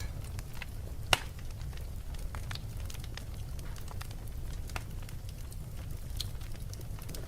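Wood fire crackling in a fireplace: a steady low rumble with scattered small pops and clicks, and one sharp, louder pop about a second in.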